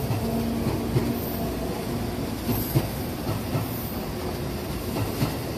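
JR West 221 series electric train pulling out of the station, its wheels rumbling steadily and clacking over the track a few times. Brief high-pitched squeals come now and then.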